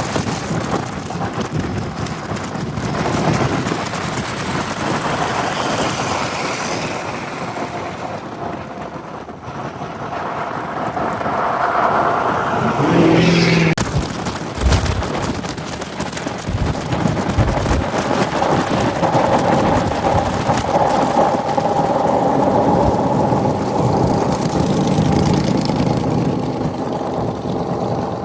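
Steady road noise of a moving truck: engine, tyre and wind noise mixed into a loud, even rush.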